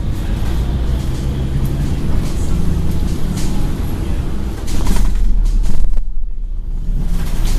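Scania N113 bus's diesel engine and drivetrain running, heard from inside the moving bus, with rattles from the body.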